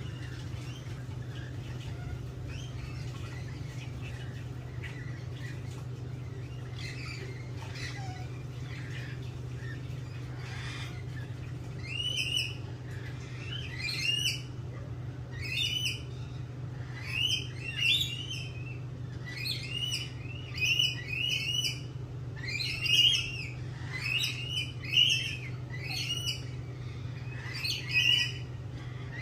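Birds calling: faint chirps at first, then from about twelve seconds in a quick series of loud short calls, each rising and falling, over a steady low hum.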